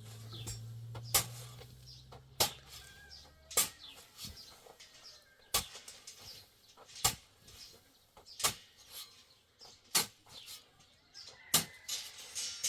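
Sharp knocks repeated about every second and a half, typical of work on an old wall, with faint bird chirps between them. A steady low hum dies away in the first few seconds.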